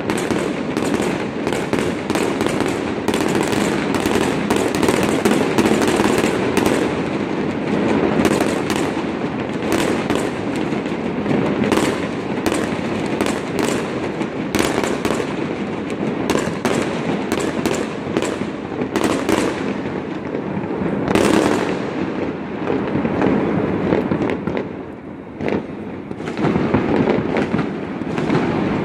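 Fireworks display: a continuous barrage of bangs and crackling reports in quick succession over a steady rumble, easing in a short lull near the end before picking up again.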